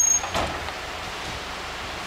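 Dump truck at work: a steady rushing noise, with a short knock about half a second in.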